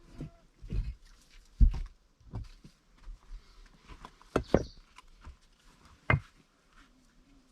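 Stones knocking and thudding as they are set down and shifted while a stone stove is being laid. The knocks come irregularly, about a second apart, with the loudest two near the middle and about six seconds in.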